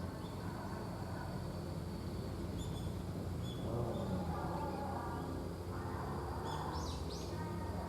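Small birds calling: scattered short, high chirps, with a pair of quick sweeping calls near the end, over a steady low background rumble.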